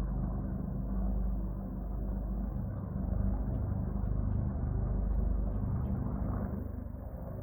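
A steady low rumble that rises and falls slightly in loudness, with a few faint short chirps or ticks above it.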